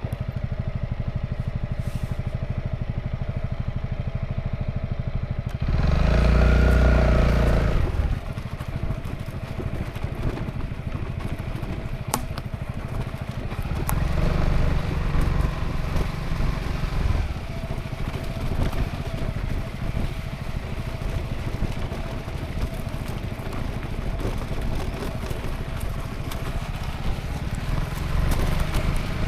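Honda ADV350 scooter's single-cylinder engine running on the move. There is a louder two-second surge about six seconds in, and smaller swells later.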